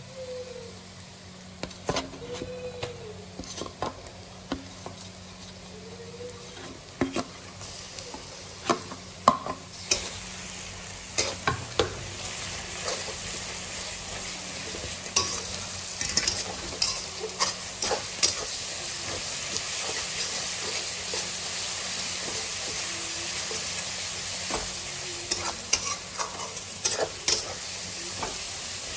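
Onions and garlic paste frying in hot oil in a steel kadai, a steady sizzle, with a spatula scraping and tapping against the pan as they are stirred. The sizzle grows louder about ten seconds in.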